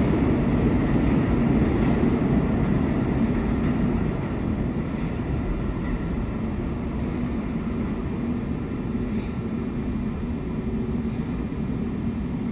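New York City subway train running: a steady rumble that eases off slightly over the first few seconds and then holds even.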